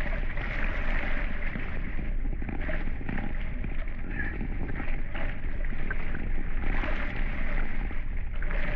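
Wind buffeting the microphone over water rushing and splashing along the hulls of a Hobie 16 catamaran under sail, a steady noise throughout.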